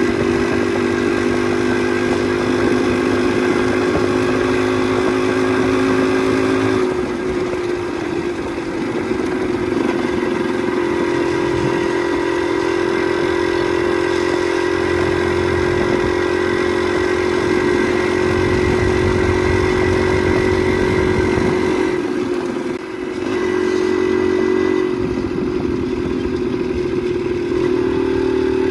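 Motorcycle engine running under way, its note steady for long stretches, easing off and changing pitch about seven seconds in and again about twenty-three seconds in, with wind and road noise.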